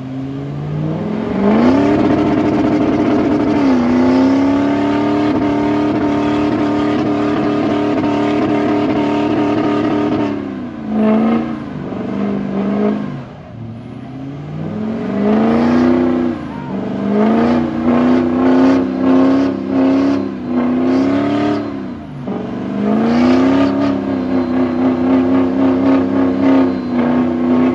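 Truck engine revved hard and held at high revs for several seconds at a time, as in a burnout. The revs drop and climb back twice, with a choppy, stuttering stretch in the middle.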